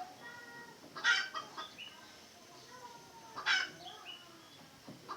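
Red junglefowl clucking and calling, with two louder calls, one about a second in and one midway.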